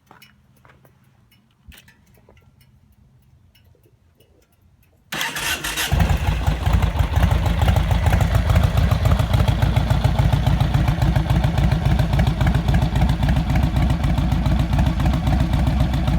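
Vehicle engine with a newly fitted muffler and exhaust pipes: a few quiet clicks, then about five seconds in the engine is started and catches, settling into a loud, steady idle through the new pipes.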